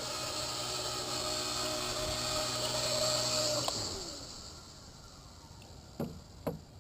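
Blade 130 X micro RC helicopter's motor and rotor running with a steady high-pitched screech, then shutting off about three and a half seconds in and winding down with falling pitch. The owner suspects the screech is a faulty main shaft bearing. Two light knocks near the end.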